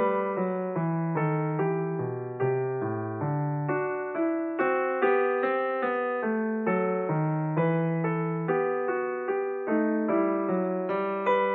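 Background music: a piano playing a steady run of single notes and chords, each note struck and then fading.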